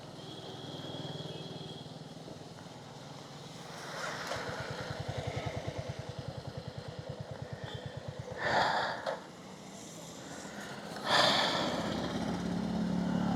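Royal Enfield Hunter 350's single-cylinder engine idling with an even, rapid thump, and two short loud hissy bursts in the second half.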